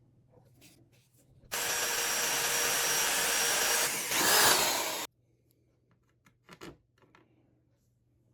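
Electric drill running for about three and a half seconds, boring a hole through the speaker's casing; it starts and stops abruptly and gets louder for a moment just before it stops.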